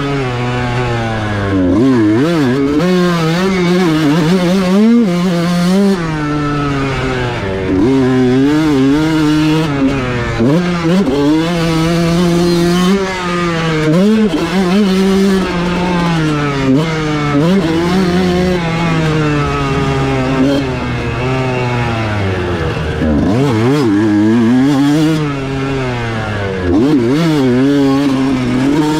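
Kawasaki KX125's 125cc single-cylinder two-stroke engine revving hard at wide-open throttle, its pitch climbing and falling every second or two, with a few deeper drops where the revs fall right off before climbing again.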